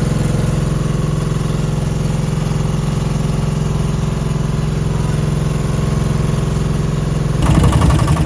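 Boat engine running steadily with a low hum; near the end the sound gets louder and rougher.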